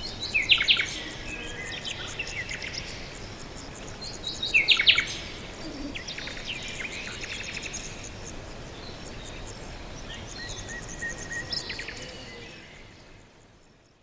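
Garden birdsong: several birds chirping and trilling, with two louder bursts of calls about half a second in and around four and a half seconds, over a soft steady background. The sound fades out near the end.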